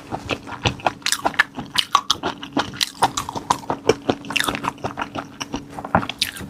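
Close-up eating sounds of someone biting and chewing raw marinated black tiger prawns: a quick, irregular run of small clicks and crackles of mouth and shell.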